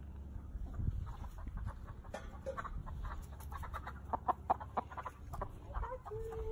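Chicken clucking in a rapid run of short clucks, over a steady low rumble.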